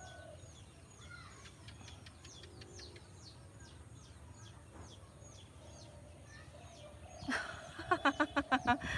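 Small birds chirping: a steady run of short, high, falling chirps, two or three a second. Near the end a much louder pitched sound comes in, pulsing several times.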